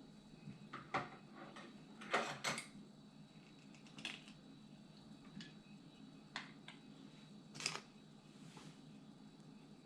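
Scattered light clinks and taps of a spoon against a small bowl and bottles while sauce ingredients are measured, with a short cluster of taps about two seconds in.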